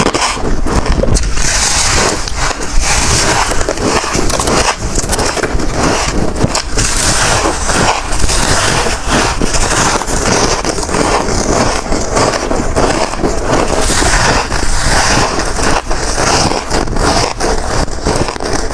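Close-miked crunching of a person biting into and chewing soft, frosty white ice chunks, one crisp crunch after another with no pauses.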